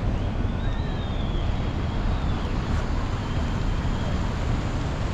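Strong wind buffeting the microphone, a steady low rumble, with faint high drawn-out tones rising and falling in the background.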